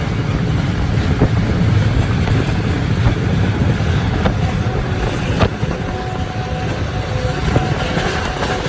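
Pakistan Railways passenger train running along the track: a steady heavy rumble with a few sharp knocks from the wheels over rail joints.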